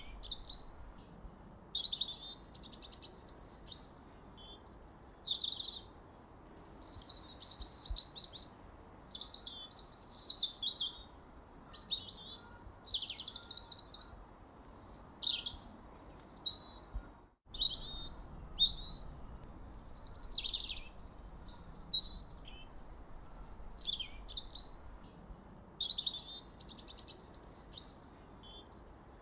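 Several songbirds singing continuously, with overlapping chirps and quick whistled phrases that slide up and down in pitch over a faint steady hiss. The sound cuts out for an instant a little over halfway through.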